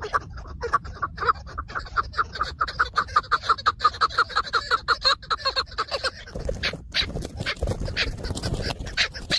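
Chukar partridge giving its rapid clucking call, a fast run of short notes at about five or six a second for some six seconds. After that come rustling and scattered knocks.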